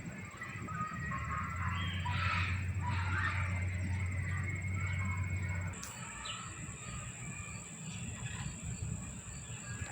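Birds chirping and calling in short scattered notes, thickest in the first few seconds, over a steady low hum that cuts off about six seconds in.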